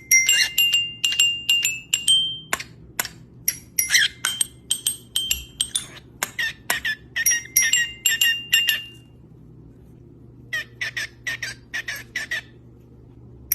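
A small bird chirping in quick runs of short, sharp, high calls, with a pause of a second or so about two-thirds of the way through.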